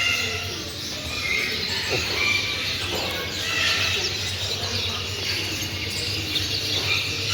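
Many small cage birds chirping and calling over one another in a constant chatter, with a steady low hum underneath.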